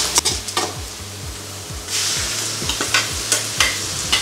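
Onions, curry leaves and chana dal frying in oil in an aluminium kadai, with a flat metal spatula scraping and stirring against the pan. This is the tempering stage of tomato thokku. About two seconds in, the sizzle grows louder as the ground chilli-garlic-ginger paste goes into the hot oil.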